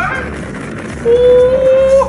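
A car horn sounding one long held note that starts about a second in, over traffic and engine noise.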